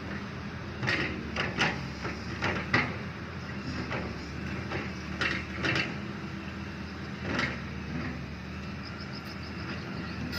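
Excavator's diesel engine running steadily, with a series of short knocks and scrapes from the digging, the loudest a few seconds in.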